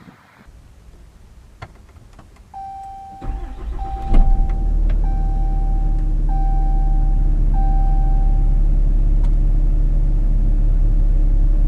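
Ram 3500's 6.7-litre Cummins inline-six turbo diesel cranking and catching about four seconds in, then idling steadily. Five evenly spaced dashboard warning chimes ring over the start, after a few clicks in the quiet cab.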